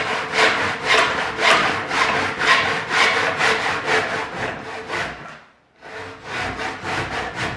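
Hand saw cutting crosswise into a log around a marked line, in regular back-and-forth rasping strokes about two a second. The strokes stop briefly about five and a half seconds in, then start again.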